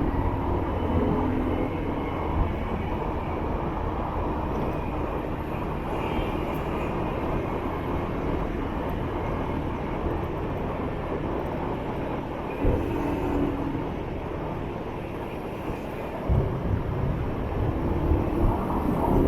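Motorbike riding through city traffic: its engine running under steady wind and road noise, with a few short thumps in the second half.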